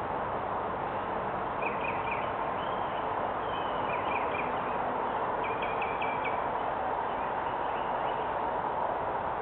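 Outdoor ambience: a steady hiss with faint, short bird chirps coming in a few small clusters.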